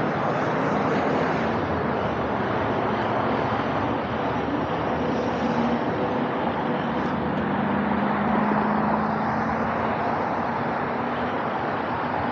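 Steady road traffic from a busy highway, with a low hum that grows stronger for a few seconds in the middle.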